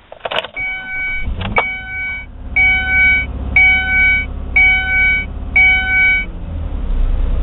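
2001 Ford Escape's 3.0 L V6 being started with its new idle air control valve. There is a click, the engine catches about a second and a half in, and it holds a fast idle near 2,500 rpm instead of dying. A dashboard warning chime sounds about once a second, six times, then stops.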